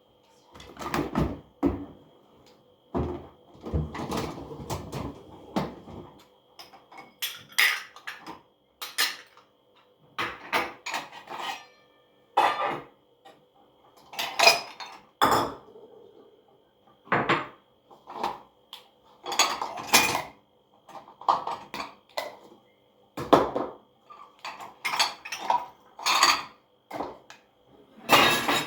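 Dishes and cutlery clattering and clinking as they are handled: irregular knocks and clinks, some in quick clusters.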